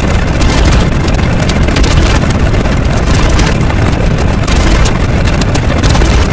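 Loud, dense wall of layered sound effects merged into one continuous noisy rumble, heaviest in the low end, with crackly flickers through the top and no clear pitch or beat.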